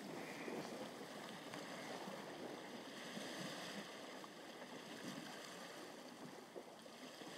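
Faint, steady wash of sea water lapping against the shore rocks.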